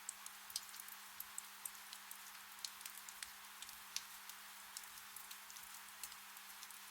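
Gentle rain falling steadily, with many separate drops ticking sharply on leaves and surfaces over a soft, even hiss.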